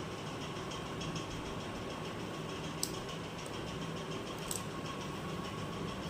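A small motor running steadily, with two sharp clicks about three and four and a half seconds in.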